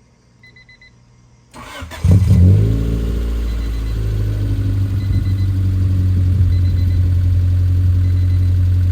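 Honda Civic EF engine cranked by the starter and catching about two seconds in, then idling steadily. A faint beep just before the start and faint beeps about every second and a half after it come from the seatbelt warning chime, whose speaker has been torn off its circuit board.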